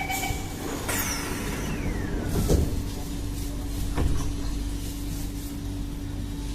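C151A MRT train's passenger doors closing: a warning chime ends just after the start, then a long falling whine as the doors slide shut, ending in a thud about two and a half seconds in, with a sharp knock near four seconds. A steady hum from the train runs underneath.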